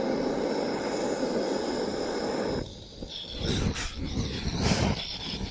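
Gas canister blowtorch flame burning with a steady rushing noise that cuts off about two and a half seconds in, followed by several short, irregular bursts of noise.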